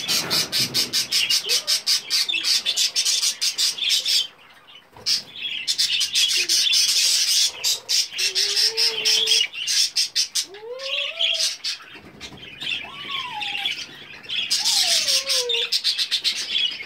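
Newborn budgerigar chicks chirping in long runs of rapid, high-pitched peeps, typical of nestlings begging for food. The chirping breaks off briefly about four seconds in, and a few lower, sliding calls come in over the second half.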